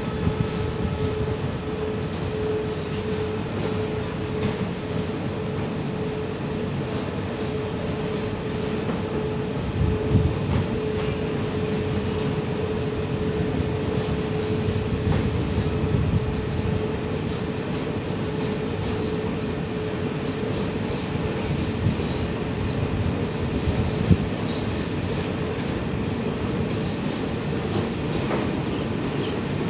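Container flatcars of a freight train rolling slowly past, with a continuous rumble of wheels on rail and a steady high-pitched squeal from the running gear. A thinner, higher squeal comes and goes, and there are a couple of brief knocks along the way.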